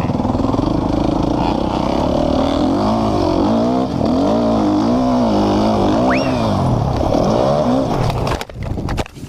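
Dirt bike engine revving up and down over and over, its pitch climbing and falling about once a second. A few sharp knocks and short breaks come near the end.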